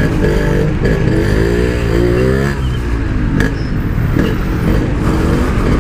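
Yamaha RX-King's two-stroke single-cylinder engine, breathing through a Packing Power standard-style exhaust, revving up and falling back several times under short bursts of throttle.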